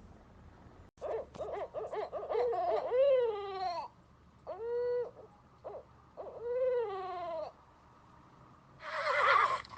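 An animal calling: a quick run of short pitched notes ending in a longer call that falls in pitch, then two more separate calls that rise and fall, and a short harsh, noisy sound near the end.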